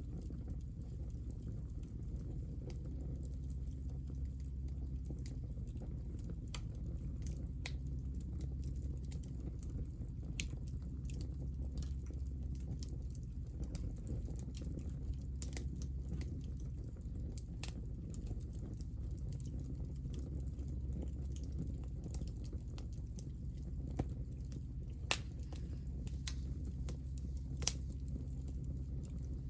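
Hinoki cypress offcuts burning in a wood fire, crackling with irregular sharp pops over a steady low rumble, with a few louder snaps near the end.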